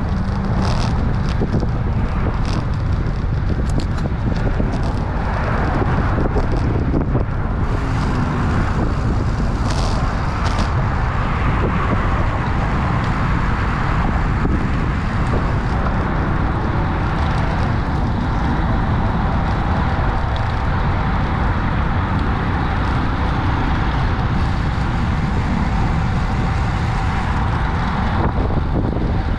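Steady rumble and hiss of a moving vehicle, even throughout, with a few faint clicks in the first several seconds.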